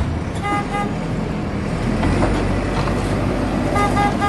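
A vehicle engine running steadily, with two short horn-like toots, one about half a second in and one near the end.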